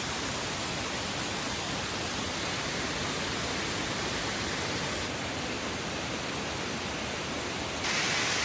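Steady rushing noise with no distinct events, turning abruptly louder and hissier near the end.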